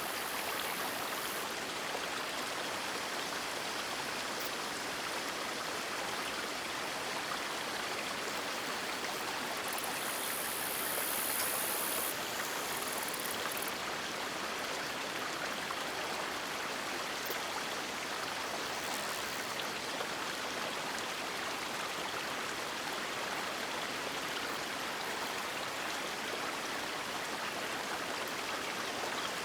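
River water flowing and splashing steadily, an even rushing noise, briefly a little louder and brighter about ten seconds in.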